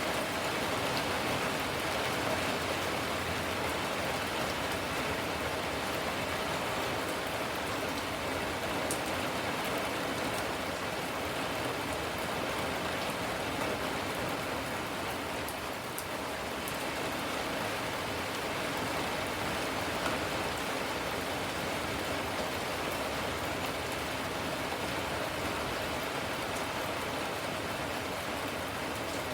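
Steady rain falling, with scattered individual drops pattering on surfaces.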